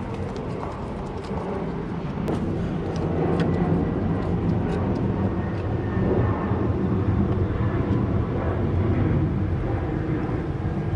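A steady low engine rumble from a vehicle or aircraft, swelling slightly about two seconds in, with a few light metallic clicks over it.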